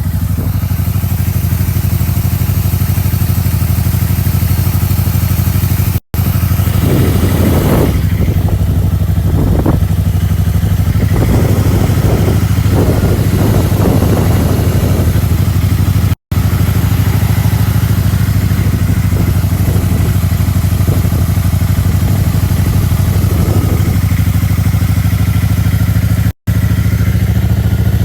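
Yamaha motorcycle engine running at a steady, unchanging pitch. The sound cuts out to silence briefly three times, about every ten seconds.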